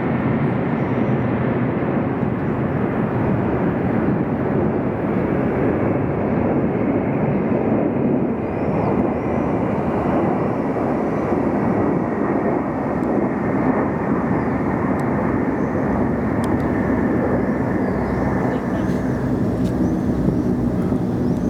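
Military aircraft flying overhead in a parade flypast: a loud, steady rushing engine noise with a whine that slowly falls in pitch.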